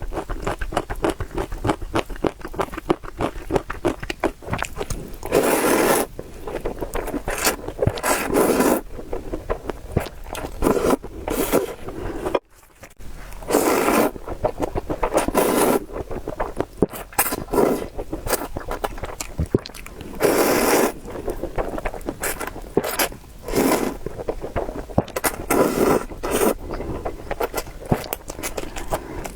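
Noodles being slurped and chewed close to the microphone: a run of small wet clicks of chewing broken by about seven short, loud slurps.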